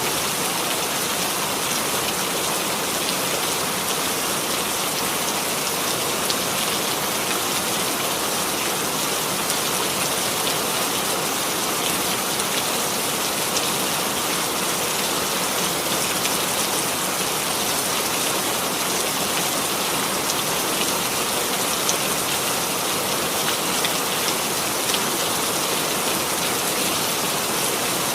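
Steady rainfall with small scattered drop ticks, even and unchanging.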